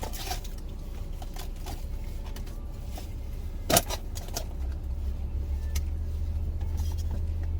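Small clicks and rustles of food containers being handled, with one sharper click about four seconds in, over a steady low hum.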